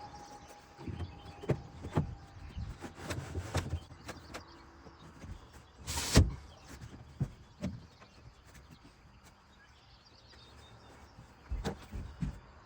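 Scattered knocks and clunks of things being moved and handled, with one louder, sharper noise about six seconds in and a quieter stretch after it.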